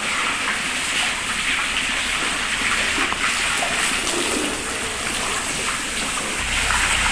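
Water gushing and splashing steadily, a continuous spray of falling water.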